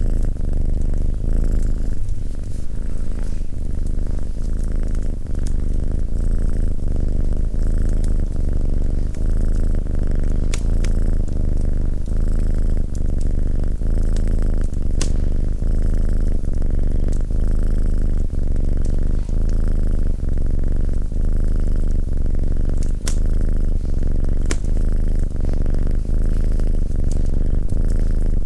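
Domestic cat purring close up, a continuous low rumble that swells and eases with each breath. Occasional sharp crackles from a wood fire in the fireplace sound over it.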